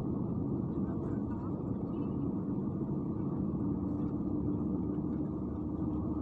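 Steady low engine rumble from motorcycles, with a steady hum coming in about halfway through.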